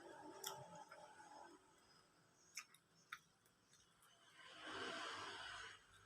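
Faint eating sounds: a few sharp clicks of mouth and utensils, and about four and a half seconds in a longer breathy noise lasting over a second, the loudest thing here.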